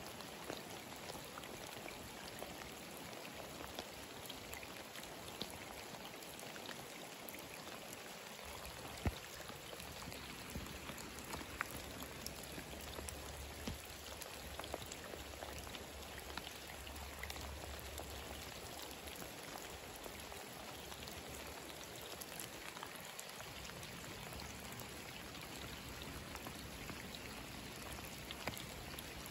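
Steady rain falling onto standing water on a flooded asphalt street: an even hiss dotted with the ticks and splashes of single drops, with one sharper tick about nine seconds in. A low rumble runs underneath for about ten seconds in the middle.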